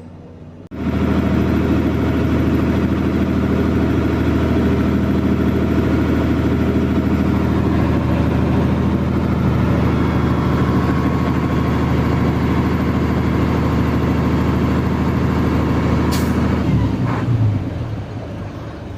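Isuzu 6HH1 six-cylinder diesel engine of a Forward truck running steadily. It comes in suddenly about a second in and drops away near the end, just after a brief sharp hiss.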